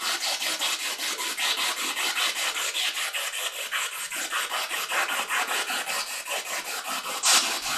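Spirit box sweeping through radio stations, a rapid, even stutter of choppy static many times a second, with a brief louder blip near the end.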